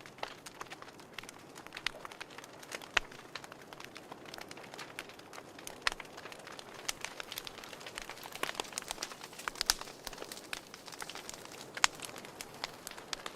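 Wood fire crackling in a fireplace: irregular sharp pops and snaps over a soft steady hiss, with the strongest pops about three seconds in and near the end.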